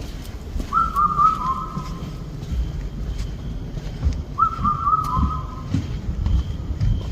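A bird's whistled call at dawn: a short phrase of a few clear notes, stepping slightly down in pitch, heard twice about four seconds apart.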